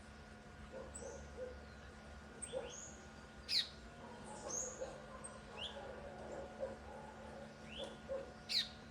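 Violaceous euphonia giving short, sharp high call notes every second or two, some sweeping steeply and others sliding down in pitch, the loudest about three and a half seconds in and near the end. Soft low notes repeat underneath.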